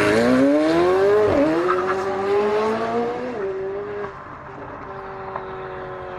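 McLaren 720S twin-turbo V8 accelerating hard from a launch. Its note climbs in pitch and drops back at upshifts about a second and a half in and again past three seconds, then holds steadier and fades as the car pulls away.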